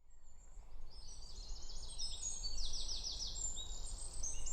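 Several birds singing together in quick runs of high, repeated chirps over a steady low rumble, fading in at the start.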